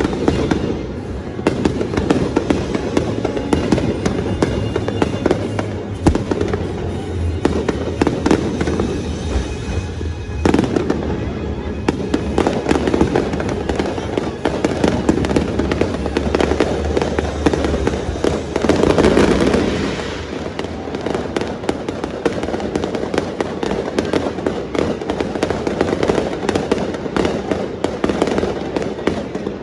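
Fireworks going off in a rapid, near-continuous barrage of bursts and crackles, with music playing over a sound system.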